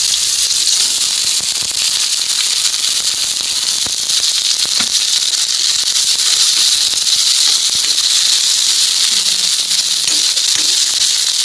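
Chicken liver, onion and tomato sizzling steadily in hot oil in a non-stick wok, stirred with a spatula, with a few faint clicks of the spatula against the pan.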